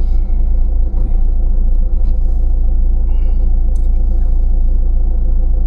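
Recovery truck's engine running steadily, a constant low drone heard from inside the cab.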